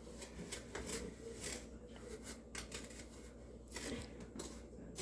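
A spoon stirring and scraping cinnamon sugar around a measuring cup, with faint, irregular scrapes and clicks.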